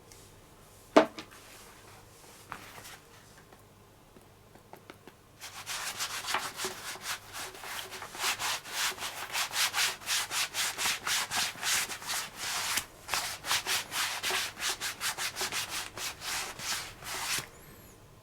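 Cloth rubbing leather oil into a baseball glove: quick back-and-forth scratchy strokes, about four a second, starting about five seconds in and running for some twelve seconds. A single sharp tap comes about a second in.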